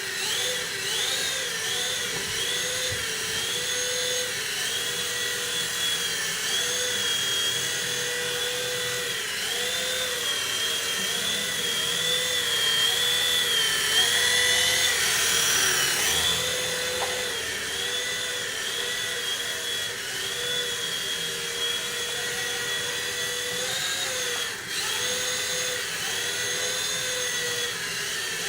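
V911 four-channel micro RC helicopter's electric motors and rotors running in flight, a steady high whine whose pitch rises and falls about once a second as the throttle is worked. It grows louder for a few seconds around the middle.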